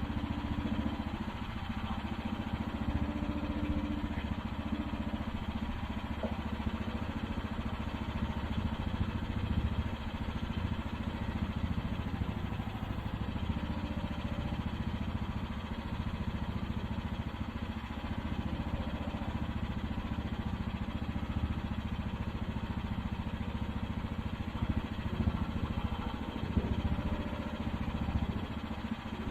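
AGT QH13R mini excavator's engine running at a steady speed.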